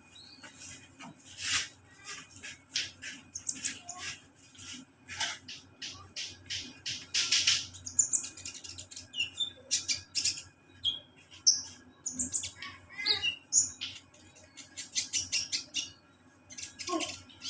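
Kolibri ninja sunbird singing energetically: a rapid, irregular run of sharp high chips and ticks mixed with short, high whistled notes.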